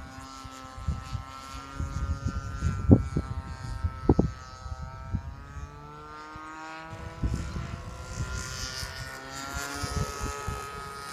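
Radio-controlled model airplane in flight, its engine and propeller making a steady drone whose pitch slowly rises and falls as it passes. Gusty wind buffets the microphone with low thumps, strongest about three and four seconds in.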